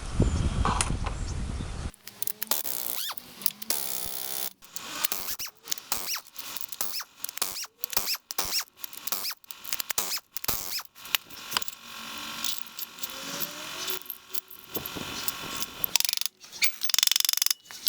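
Rapidly spliced fragments of workshop noise during engine work: short clicks, metallic clinks and squeaks that cut in and out every fraction of a second.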